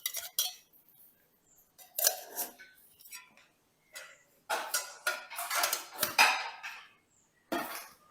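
Dishes and cutlery clinking and clattering in a run of irregular bursts, busiest from about halfway through.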